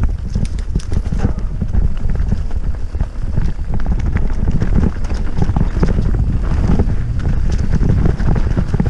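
Mountain bike rattling fast down a rocky trail: a rapid, irregular clatter of tyres and frame knocking over rocks and roots. Heavy wind buffeting on the camera microphone runs under it.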